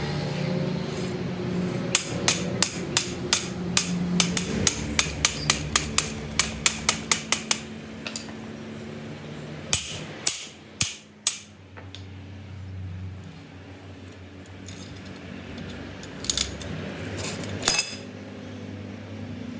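Hammer blows on metal: a quick run of about three strikes a second for several seconds, then, after a pause, a few separate heavier strikes.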